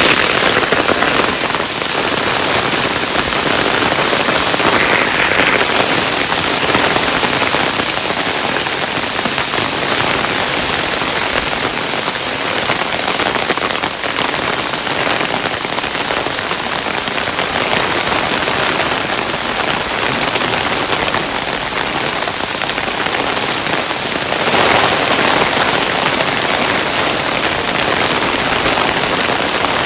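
Hailstones falling steadily, a dense pattering of countless small impacts, with slight swells in intensity about five seconds in and near the end.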